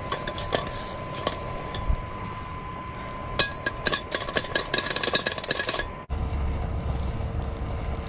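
Metal cookware and utensils clinking, with a dense run of crackling and clicks in the middle that ends abruptly.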